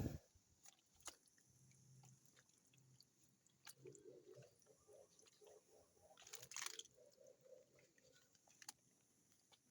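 Near silence, with scattered faint clicks and rustles outdoors. One sharper click comes right at the start, and a patch of faint rustling runs from about four to seven seconds in.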